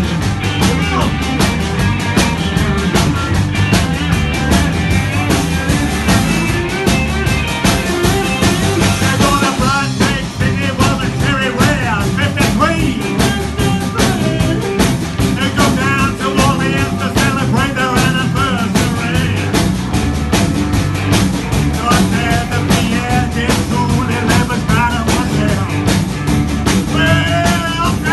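Rock covers band playing a rock and roll song, a full band with an even beat.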